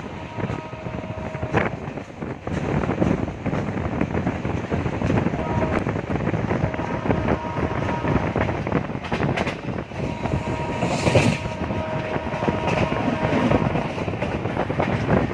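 Passenger train running along the track, heard from on board: a steady rumble and rattle of the wheels with sharp clacks scattered through it, and faint steady tones that come and go.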